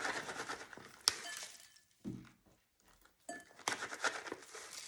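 Sliced almonds poured from a measuring cup into a salad bowl: a spill of light rattling clicks with one sharper clink about a second in. After a brief quiet gap about two seconds in, more clinking and rattling of dishes follows.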